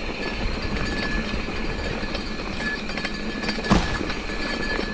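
2015 Trek Session 88 downhill mountain bike ridden over a dirt trail: a steady rolling and rattling noise with scattered small clicks, and one sharp knock a little before the end.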